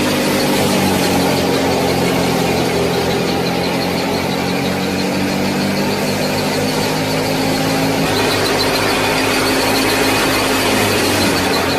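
Small motor of a miniature model tractor and thresher running steadily with a high-pitched whine, its pitch shifting slightly near the end.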